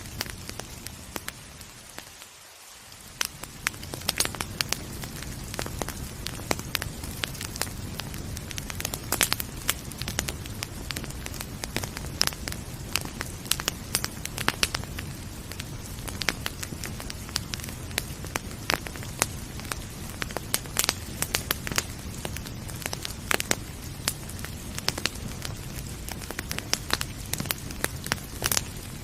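Wood fire crackling with frequent sharp pops over a steady hiss of rain. The whole sound dips briefly quieter about two seconds in, then comes back.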